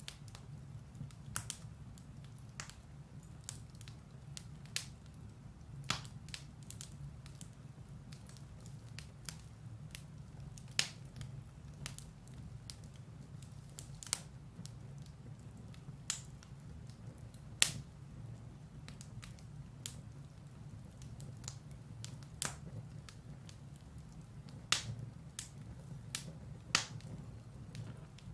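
Firewood burning in a fireplace: a low steady hiss of the flames with irregular sharp crackles and pops from the logs, several louder snaps spread through.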